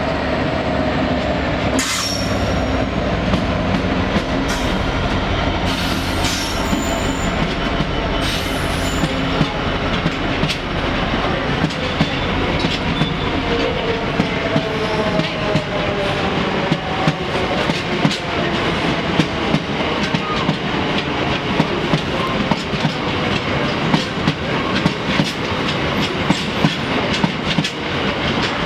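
A train running on the rails, its wheels clicking over rail joints, with the clicks coming thicker in the second half, and a few faint whining tones from the wheels.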